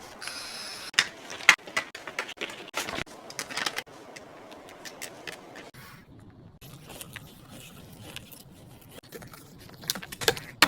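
Irregular clicks, knocks and scrapes of containers and items being handled, moved and set down, with a few sharper knocks about a second in and near the end.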